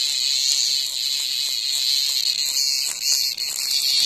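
Cicada buzzing: a loud, steady, high-pitched hissing drone.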